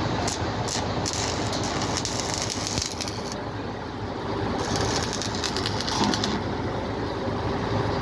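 Stick welding arc crackling in two runs of about two seconds each, over a steady engine hum.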